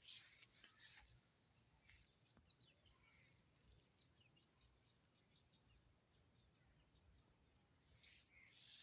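Near silence with faint birds chirping and twittering, many short high calls through the middle. Brief soft rustling near the start and again near the end.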